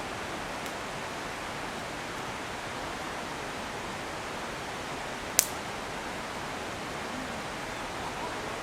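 Steady rush of a clear mountain stream flowing over stones, with one sharp click about five seconds in.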